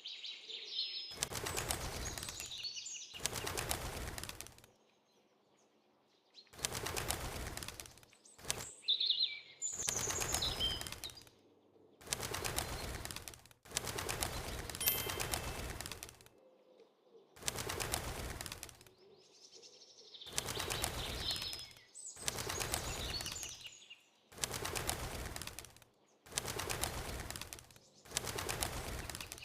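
Bird wings flapping in about a dozen bursts of a second or so each, with short pauses between, and high chirping calls now and then.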